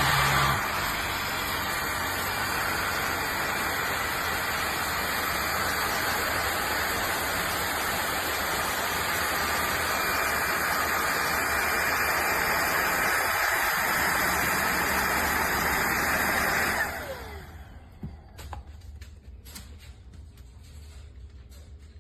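Bissell PowerClean FurGuard upright vacuum cleaner running steadily, then switched off about 17 seconds in, its motor winding down with a falling whine. A few faint clicks and knocks follow.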